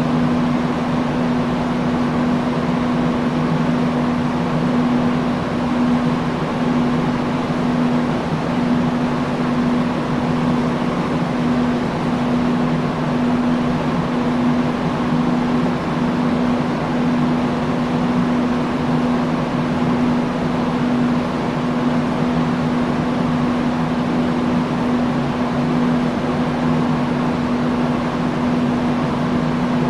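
Industrial fan running steadily: a constant rush of air with a steady low hum from the motor.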